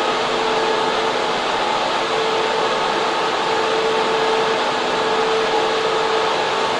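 Data center server room: server and air-cooling fans making a steady, loud rush of air, with a constant mid-pitched hum running through it.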